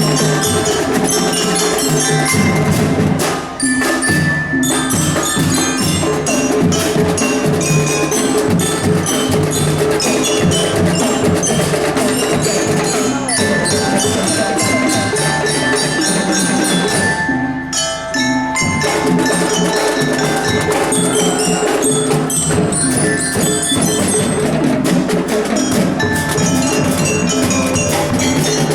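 A school marching drum band playing: ringing mallet-struck bell notes carry a melody over drums and wood-block percussion. The music thins out briefly about three and a half seconds in and again around seventeen seconds.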